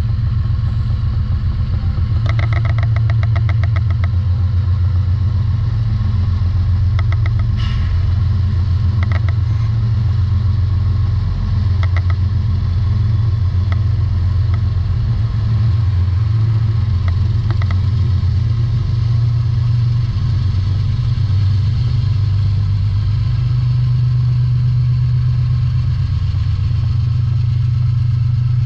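CSX diesel freight train passing: the locomotives' engines run by, then hopper cars roll past, all over a steady low engine drone. A run of fast clicks comes about two seconds in, with scattered single clicks later.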